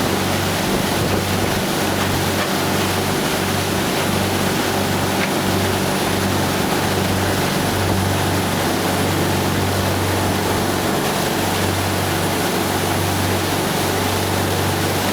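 Towing motorboat's engine running at a steady low drone under a constant rush of water and wind.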